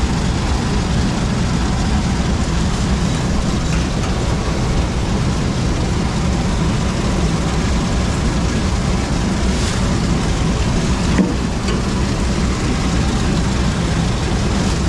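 Zmaj 142 combine harvester running steadily under load while harvesting corn, a dense mechanical clatter over a low engine hum, with one brief knock about eleven seconds in.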